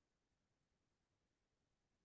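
Near silence: faint steady background hiss, with no distinct sound.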